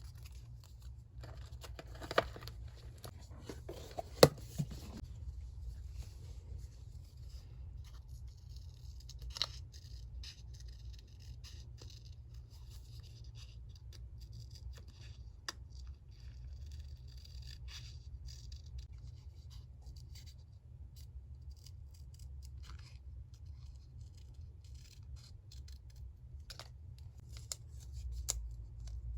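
Paper crafting at a desk: scissors snipping and paper rustling and scraping as it is handled, with two sharp clicks a couple of seconds apart near the start, over a steady low hum.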